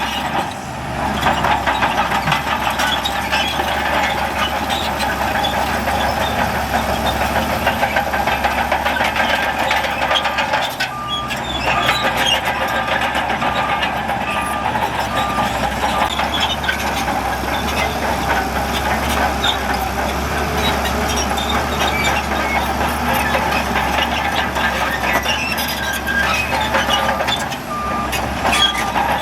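Heavy diesel earthmoving machinery running steadily, with a reversing alarm beeping in a run of evenly spaced beeps around the middle and again near the end.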